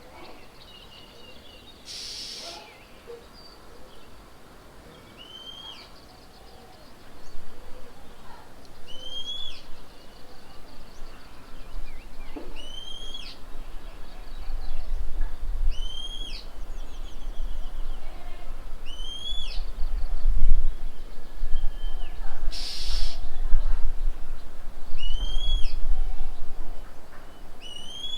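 A bird calling over and over, one short note that rises and then falls, about every two and a half seconds. A low rumble swells in under it through the second half and is the loudest thing heard, with two brief hissing noises, one near the start and one near the end.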